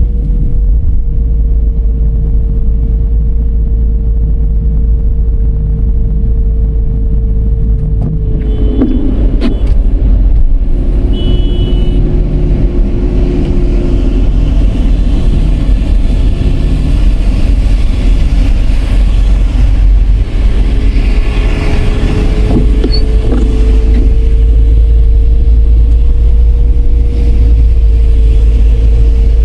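Car driving along: a steady low rumble of engine and road noise, with a steady whine that fades out about a third of the way in and comes back, rising slightly, about two-thirds of the way in. A few short high beeps sound around the middle.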